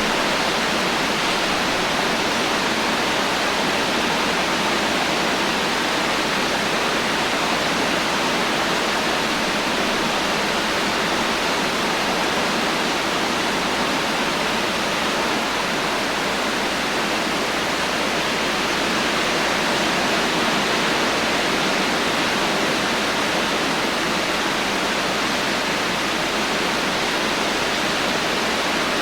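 Heavy rain falling steadily, an even hiss with no thunder and no single drops standing out.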